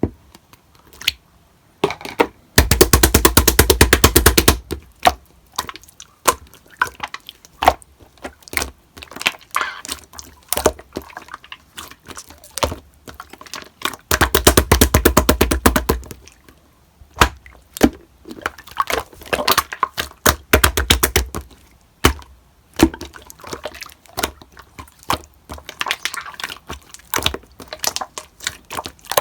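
Slime being squeezed, poked and stretched by hand, making wet clicking and popping sounds, with two long runs of very rapid clicks a few seconds in and about halfway through.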